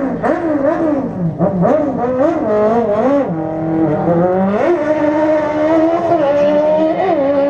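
A racing vehicle's engine revving in quick blips that rise and fall, then held at fairly steady high revs from about five seconds in, with a couple more short blips near the end.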